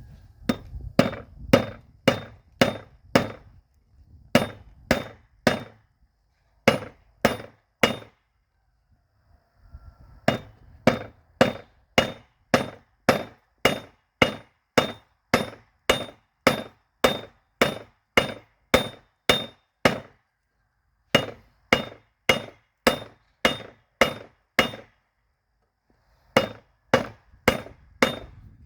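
Forging hammer striking a steel railroad spike on an anvil, about two blows a second in runs with short pauses between them, each blow ringing briefly.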